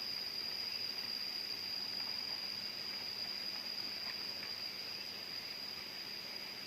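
Jungle insects droning: one steady high-pitched note held without a break, with two faint brief sounds about four seconds in.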